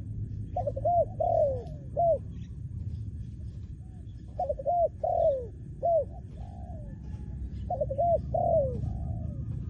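Spotted dove cooing: three song phrases a few seconds apart, each a quick run of short coos ending in a longer drawn-out note.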